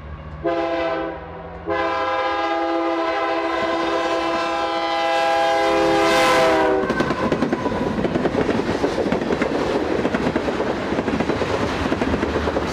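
BNSF diesel locomotive's multi-note air horn sounds a short blast, then a long one whose pitch drops as the locomotive passes. After that, tank car wheels clatter steadily over the rail joints as the train rolls by.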